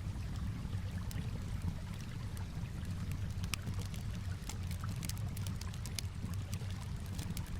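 Campfire crackling, with scattered sharp pops and snaps, over a steady low rush of gently flowing water.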